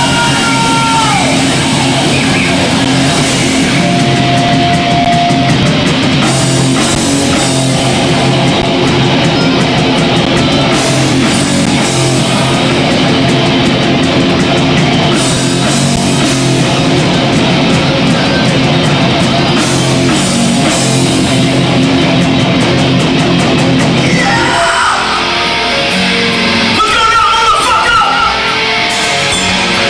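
Hardcore punk band playing live, picked up on a camcorder microphone: loud distorted electric guitars, bass and drums. About three-quarters of the way through, the full band drops out for a few seconds, leaving bending guitar notes, then comes back in near the end.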